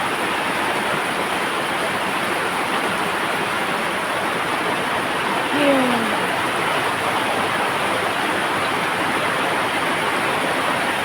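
Heavy rain pouring steadily, an even hiss of water. A short falling tone is heard once about five and a half seconds in.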